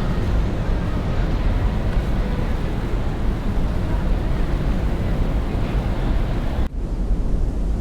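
Boat engine running on the water, with wind buffeting the microphone; the sound briefly drops out and turns duller near the end.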